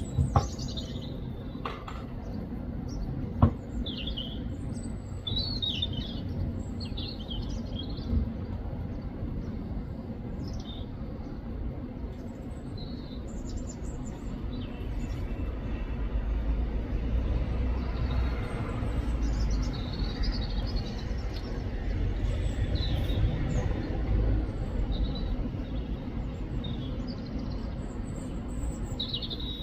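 European robin singing: short, high, varied warbling phrases with pauses between them, over a steady low rumble that swells in the second half. Two sharp knocks in the first few seconds.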